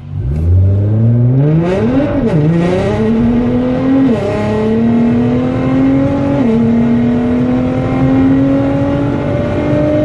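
Nissan GT-R's twin-turbo V6 with a titanium exhaust accelerating hard at full throttle in race mode, its note climbing steeply in each gear with three quick upshifts of the dual-clutch gearbox about two, four and six and a half seconds in, then climbing again toward the end.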